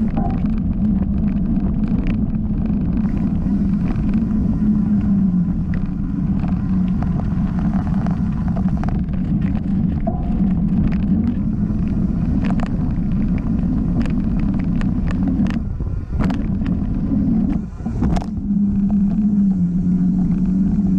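Mountain bike riding fast down a dirt singletrack: knobby tyres humming and rumbling over the ground, with wind on the microphone and frequent rattles and knocks from bumps. The rumble drops out briefly twice near the end.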